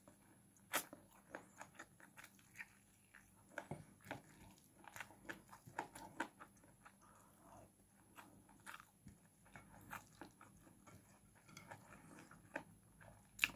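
Faint chewing and mouth smacks of a person eating chicken and rice by hand, a scatter of short soft clicks and smacks.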